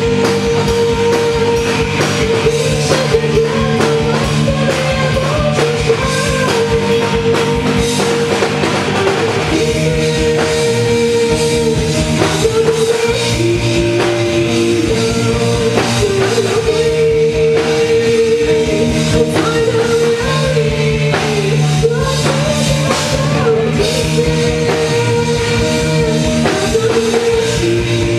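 A live rock band playing a song with singing over keys, bass and a drum kit.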